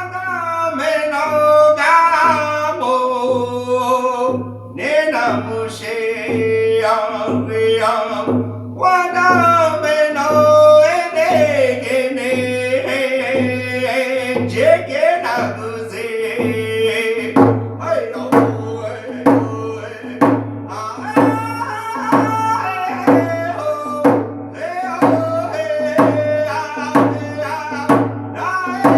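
A man singing an Ojibwe song in the Ojibwe language over a steady drumbeat of about three beats every two seconds.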